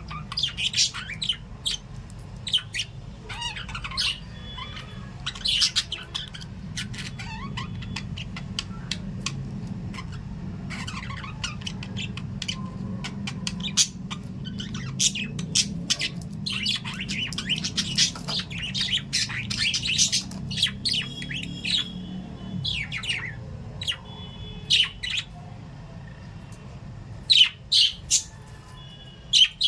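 Small parrots, lovebirds and budgerigars, chirping and squawking in quick, overlapping short calls. A low steady hum runs underneath and fades out about two-thirds of the way through.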